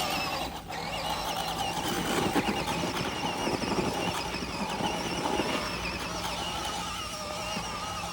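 Toy RC car's motor whining, its pitch wavering up and down with the throttle, with rough tyre scrubbing during the middle few seconds.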